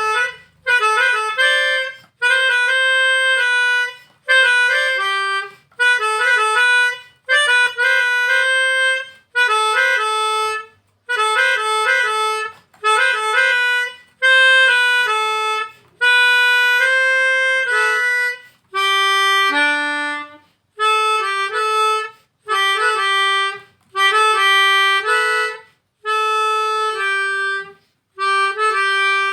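Solo harmonica playing a slow melody in short phrases of one to two seconds, each followed by a brief pause.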